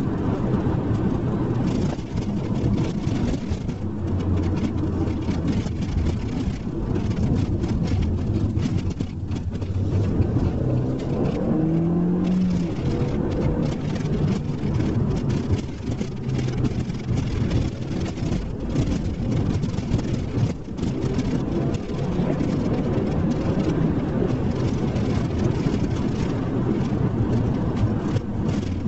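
SEAT Leon Cupra R's turbocharged 2.0 TSI four-cylinder engine running as the car is driven, its pitch shifting with speed and briefly rising about twelve seconds in.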